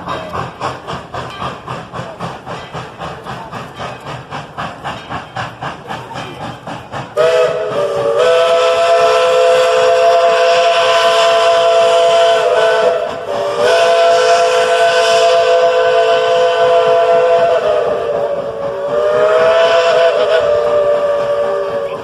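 Steam locomotive working under way with a steady, rhythmic chuffing exhaust; about seven seconds in, its whistle sounds three long blasts of several notes at once, the last one bending in pitch.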